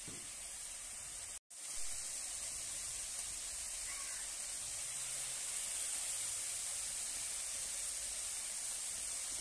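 Onion-tomato masala with ginger-garlic paste and ground spices sizzling steadily in hot oil in a steel wok as it fries down. The hiss cuts out briefly about a second and a half in.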